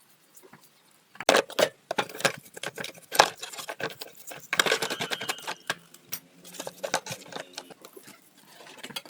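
Irregular metallic clinks and knocks, starting about a second in, one of them briefly ringing near the middle.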